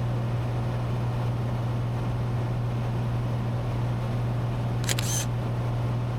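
Steady low drone of a Cessna 182T's six-cylinder Lycoming IO-540 engine and propeller in flight, heard from inside the cabin. A brief sharp click cuts in about five seconds in.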